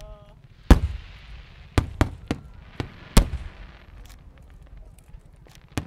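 Aerial fireworks bursting: a quick run of about six loud bangs in the first few seconds, the biggest followed by crackling, then one more bang near the end.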